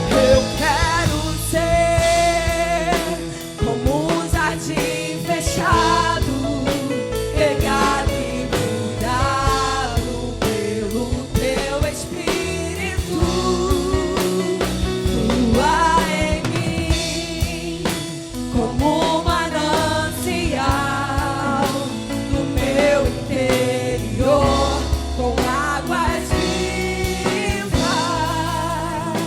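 Contemporary Christian worship music from a church band, with a voice singing a melody over drums and accompanying instruments.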